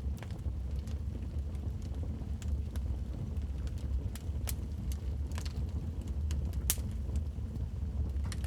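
Wood fire burning in a fireplace: a steady low rumble of the flames with frequent sharp crackles and pops at irregular moments, one louder pop near the end.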